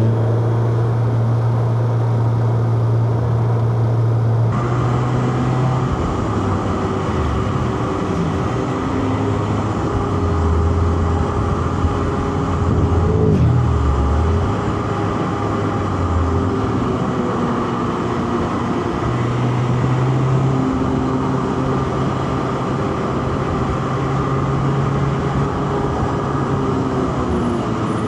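Four-cylinder car engine under way, its note holding steady, then dropping and climbing again several times as the revs change through gears and corners. A rushing noise runs under it and grows louder about four and a half seconds in.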